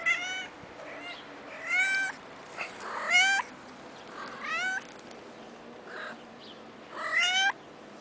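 Kitten meowing repeatedly: about five loud, high-pitched meows, each rising in pitch, with a few fainter ones between.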